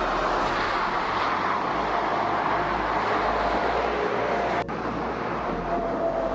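Steady motorway traffic noise: the tyres and engines of passing trucks and cars. About two-thirds of the way through there is a sharp click, after which the sound is a little quieter.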